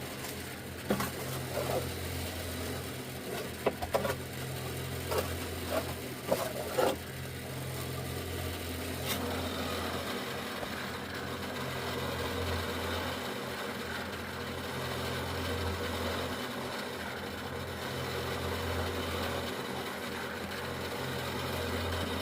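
An engine running steadily with a low hum, with several sharp knocks during the first seven seconds.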